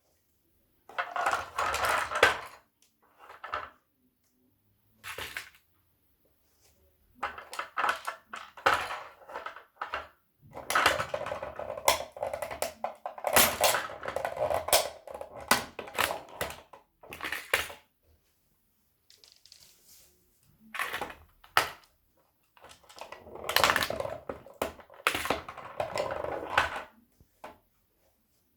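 Toy tow truck and toy car being crushed underfoot: stop-start bursts of cracking and crunching, several of them with short pauses between.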